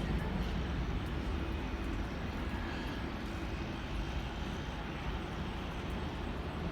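Boeing 737-800 jet airliner's CFM56-7B turbofan engines at takeoff power during the climb-out, a steady even rush of engine noise.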